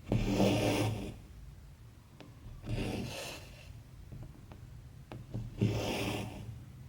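Embroidery thread pulled through cross-stitch fabric: three rasping strokes about three seconds apart, with faint ticks of the needle between them.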